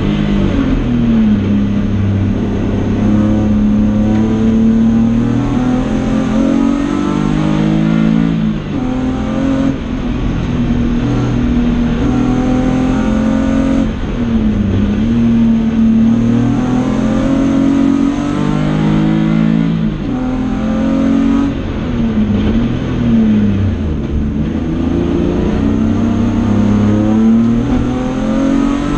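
BMW E30 race car's 2.5-litre engine, heard from inside the stripped cabin, revving hard on track. The pitch climbs through each gear and falls back at every gear change, with a few dips and recoveries where it slows for corners and pulls away again.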